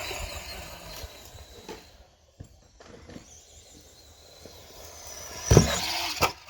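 Small brushed electric RC truck driving over the ground, its motor and tyres fading out within the first second. About five and a half seconds in comes one loud thump.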